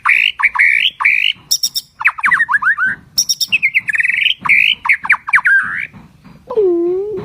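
A songbird singing loud, fast trills and chattering, sweeping phrases in quick bursts. Near the end comes a lower, drawn-out call.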